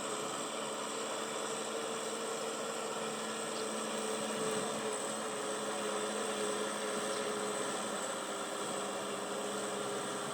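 Tractor engine running steadily with a constant hum, its pitch drifting slightly lower midway.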